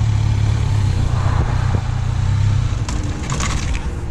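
A vehicle engine running with a steady low rumble that eases off about two and a half seconds in, followed by a brief rattle.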